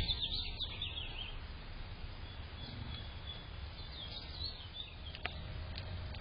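Small birds chirping in short high calls, a few in the first second and again around four seconds in, over a steady low background rumble, with a couple of faint ticks near the end.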